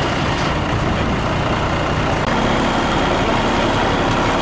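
Heavy vehicle engine running steadily, rising slightly with a new steady tone about two seconds in.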